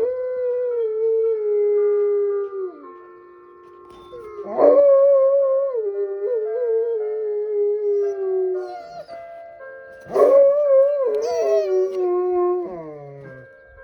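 A dog howling along to the noon chime melody: long, wavering howls that slide down in pitch, a new one starting about four and a half seconds in and another about ten seconds in, over the chime's steady held notes.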